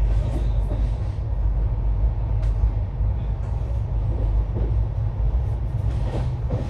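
Steady low rumble of a moving vehicle heard from inside, with a few faint knocks and rattles.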